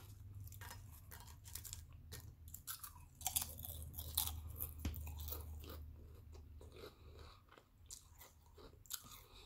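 Close-up chewing of crunchy potato chips, a run of irregular crisp crunches with mouth sounds.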